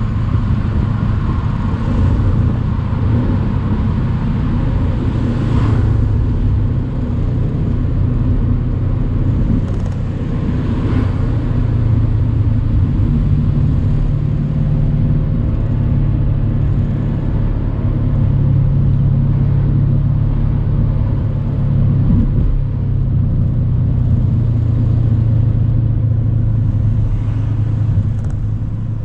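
Mercedes-AMG C63's twin-turbo V8 running at a steady cruise, heard from the open-top cabin over tyre and road noise. The engine note rises and falls slightly a few times as the throttle changes.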